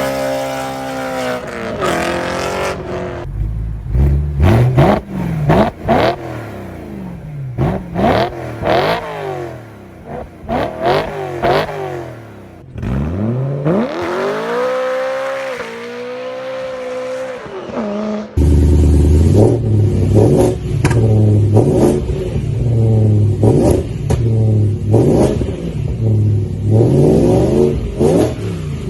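BMW E9X M3 S65 V8 engines with aftermarket exhausts, heard in several short clips cut together. Each clip has sharp rev blips that rise and fall quickly, one of them a single longer rev that climbs and drops, and the last a quick run of blips with a strong low exhaust pulse.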